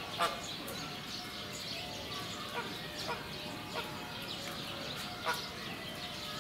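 Birds calling: about five short, sharp calls spaced a second or so apart, the loudest just after the start, over a steady background din.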